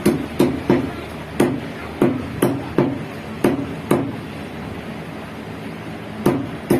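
A cleaver chopping chicken on a block: about nine sharp, uneven chopping strikes, each with a short dull ring, then a pause of about two seconds, then two more strikes near the end.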